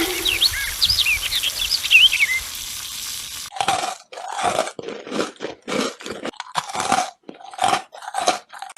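Loud crunchy chewing close to the microphone: a run of separate crunches about one a second, starting about three and a half seconds in. Before the chewing there is a steady hiss with a few high chirps.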